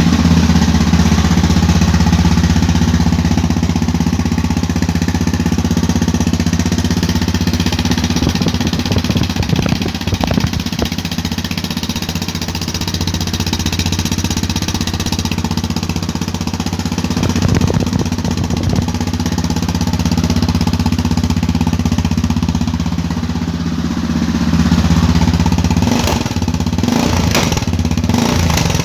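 Yamaha XT660Z Ténéré's single-cylinder four-stroke engine running at a steady idle through an aftermarket LeoVince exhaust, with a few short uneven patches.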